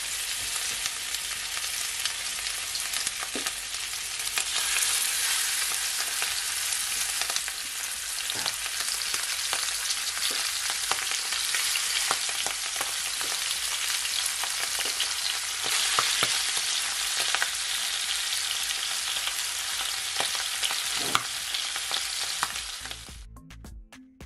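Salmon steaks frying in olive oil in a cast-iron skillet: a steady, dense sizzle with scattered pops and crackles, cutting off suddenly near the end.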